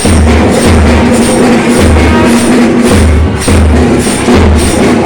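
Loud festival music led by drumming: deep drum beats in a quick, uneven rhythm over a steady held tone.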